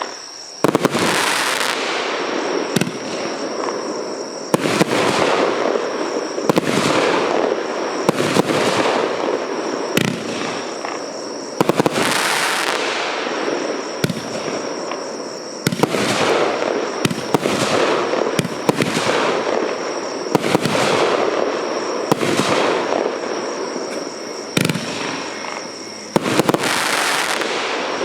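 Consumer firework battery (cake) firing shot after shot, about one every second or so. Each shot is a sharp report followed by a longer fizzing, crackling burst.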